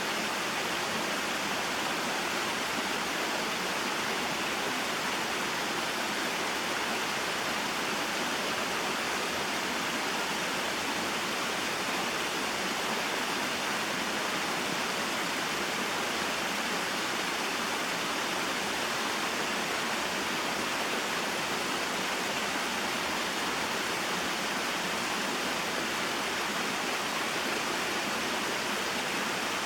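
Small waterfall and mountain stream, water pouring and rushing steadily over rocks in an even, unbroken wash.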